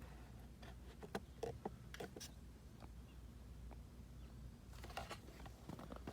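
Faint plastic clicks and taps from a cruise control module and steering-wheel trim being fitted by hand. There are a few scattered clicks in the first couple of seconds and a short cluster about five seconds in, over a low steady hum.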